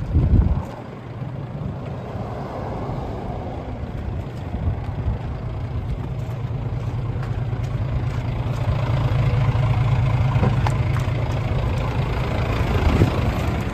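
Mitsubishi Fuso Fighter's 6M61 straight-six diesel engine running steadily at idle, a low, even drone that grows louder through the middle. A brief thump at the very start.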